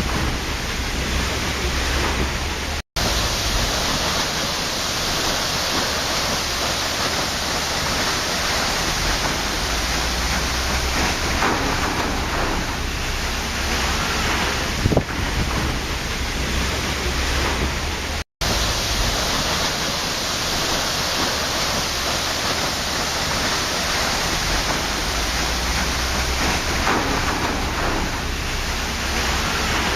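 Waterfall: a steady rush of falling water, even and unbroken except for two split-second dropouts, about 3 and 18 seconds in.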